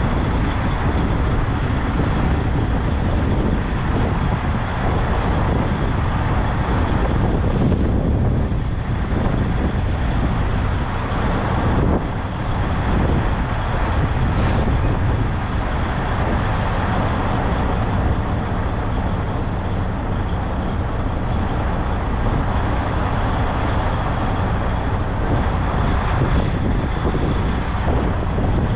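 Semi truck's diesel engine running steadily with constant road and cab noise.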